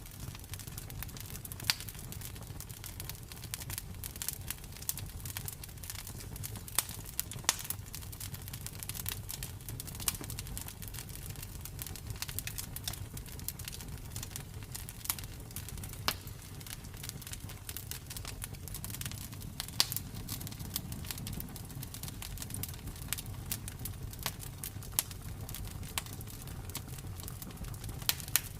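Campfire crackling: burning wood giving off irregular sharp pops and snaps over a low, steady rumble.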